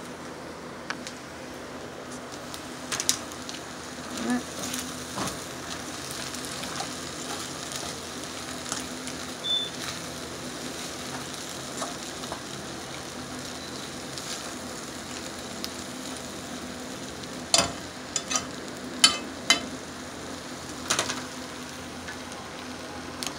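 Shrimp scampi with linguine sizzling in a metal pot on a gas stove as it is reheated and stirred. A utensil clicks against the pot now and then, with a cluster of sharp knocks about three-quarters of the way through.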